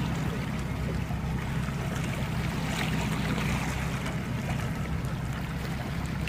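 Motorboat engine running with a steady low hum, with water rushing and splashing along the hull.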